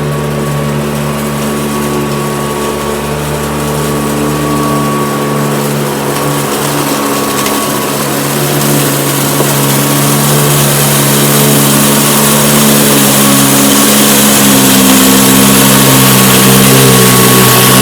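Hoover Decade 80 upright vacuum cleaner running steadily on carpet, a strong motor hum under a rushing airflow that grows a little louder toward the end, while it picks up scattered debris.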